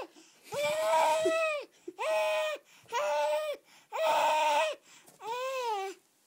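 A baby's high, drawn-out wailing cries, five in a row with short breaths between. Each cry is held at one pitch for under a second, and the last one bends up and then falls away.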